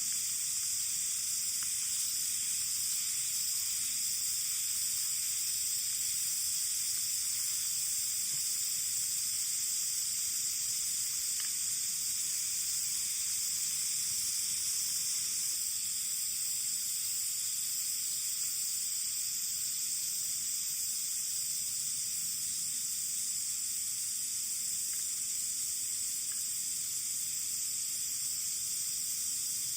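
Food sizzling in a pan over a campfire: a steady frying hiss with a few faint pops.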